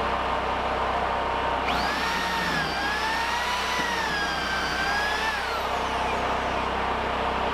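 A motor-driven machine running steadily. About two seconds in, a high whine rises over it, wavers for a few seconds and falls away.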